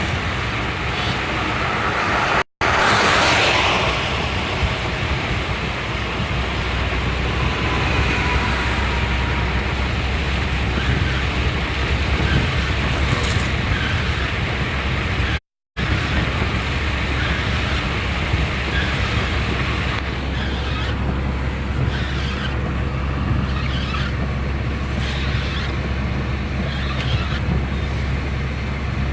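Car driving along: steady engine and road noise with a low rumble, cut off twice for a moment.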